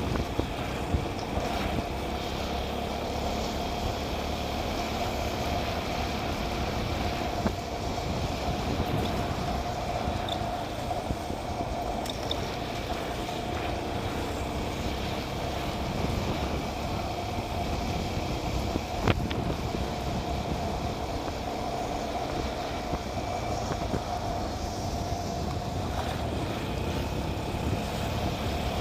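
Motorcycle engine running at a steady speed while riding, with road and wind noise. A single sharp click about two-thirds of the way through.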